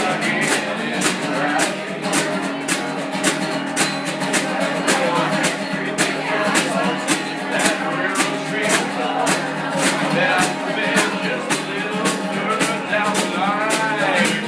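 Live guitar-based country-rock music with a steady beat, with a voice singing in places, heard through a phone's microphone with little bass.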